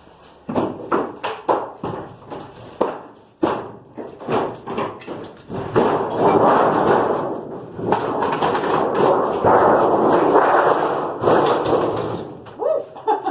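School bus ceiling panel being pulled down by hand, its rivets already ground off: a run of knocks and thuds, then about six seconds of continuous scraping and rattling as the panel comes free.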